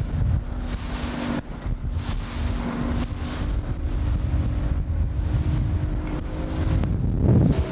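Wind buffeting the microphone aboard a motorboat under way, over the steady drone of the boat's engine. A brief louder swell comes near the end.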